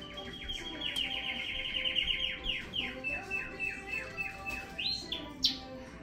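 A songbird singing: a fast trill of short falling chirps, then slower chirps and a rising whistle near the end.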